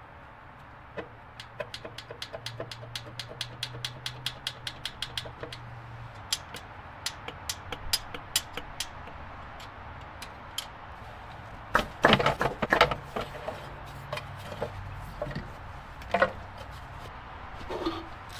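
Tool work on a car: a quick, even run of light clicks, about five a second, lasting several seconds. Scattered clicks follow, then a short burst of loud knocks about twelve seconds in, with a faint low hum underneath.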